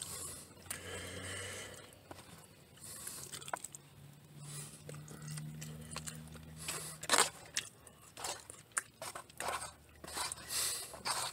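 A person chewing a mouthful of food close to the microphone: irregular wet smacks and small clicks of the mouth, with a few louder clicks around 7 and 10 seconds in.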